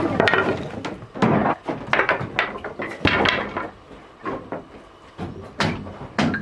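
Irregular knocks and clatters of objects being handled, fewer and quieter a little past the middle.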